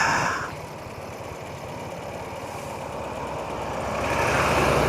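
Old BMW motorcycle engine running steadily on the move, under a rush of wind and road noise that swells over the last few seconds.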